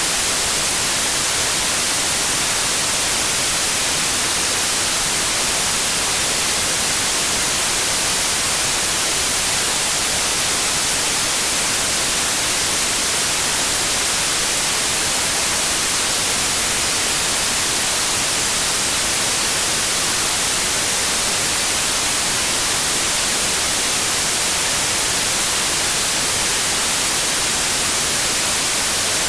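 Steady electronically generated white noise: an even, unchanging hiss, brightest in the high frequencies.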